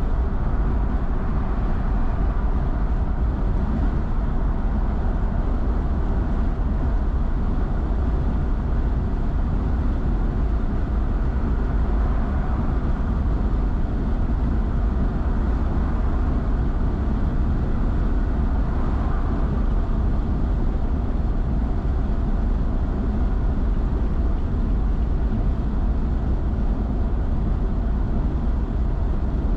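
A car driving steadily at highway speed: an even low rumble of tyres on the road and engine noise, unchanging throughout.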